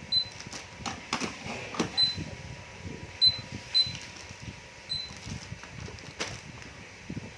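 Toy cash register beeping as its keys are pressed: five short high beeps, mixed with clicks and light knocks of handling.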